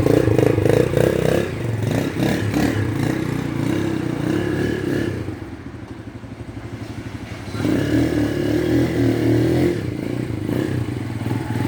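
Shineray Jef 150 motorcycle's single-cylinder engine running, dropping to a lower, quieter note for a few seconds in the middle before picking up again.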